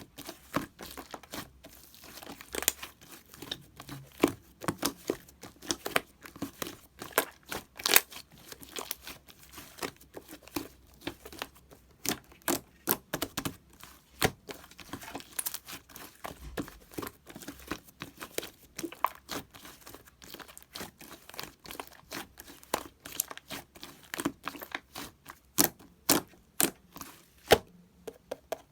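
Slime being pressed and stretched by hand, making irregular wet pops and crackling clicks several times a second.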